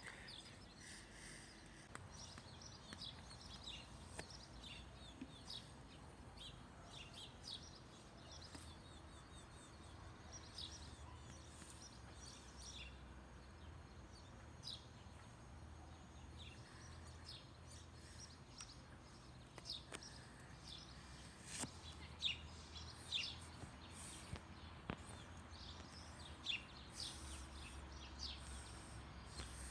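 Faint outdoor ambience of small birds chirping, with many short high calls scattered throughout, over a low steady rumble.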